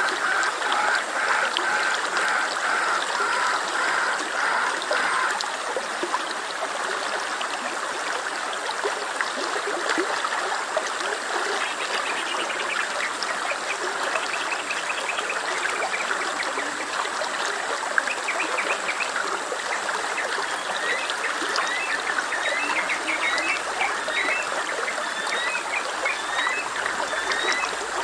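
A stream running and trickling steadily. Short, high chirps of small birds join in over the second half, growing more frequent toward the end.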